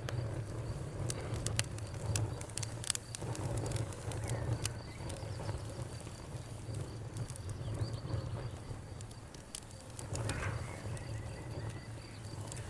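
Wood fire crackling with scattered sharp pops over a steady low rumble, with crickets chirping steadily throughout. A bird calls briefly about ten seconds in.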